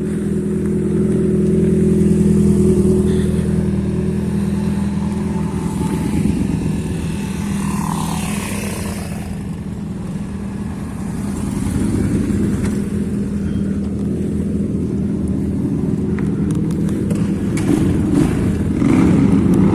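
High-displacement motorcycle engines running inside a road tunnel, a steady low engine note that eases off around the middle and grows louder again near the end.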